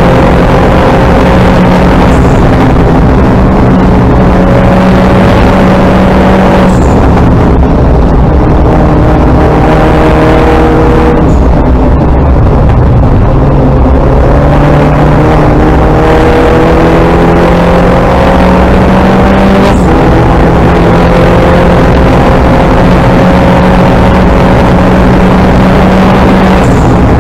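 Loud in-cabin sound of an R58 Mini John Cooper Works Coupe race car's turbocharged four-cylinder engine under hard acceleration: the revs climb steadily and fall sharply at each gear change, several times, with a brief high chirp at some of the shifts.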